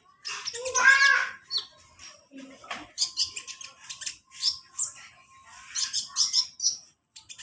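Kolibri ninja singing in a fast, chattering stream of high chirps and trills. A louder, harsher call comes about a second in, and the song breaks off briefly near the end.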